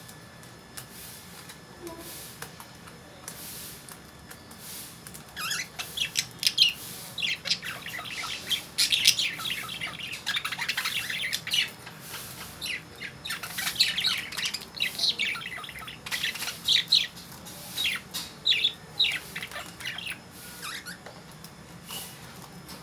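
Lovebirds chirping in rapid, shrill clusters, starting about five seconds in and dying down near the end, with faint clicks before the chirping starts.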